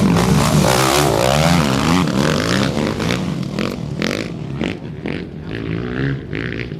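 Off-road racing motorcycle engine revving up and down as it passes, loudest in the first few seconds and fading after about four seconds.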